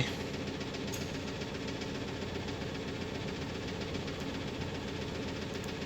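UMZ-4216 petrol inline-four engine idling with a steady knock from inside the engine. The mechanic first took it for a piston-pin knock; the teardown traced it to a scuffed second cylinder with a cracked piston.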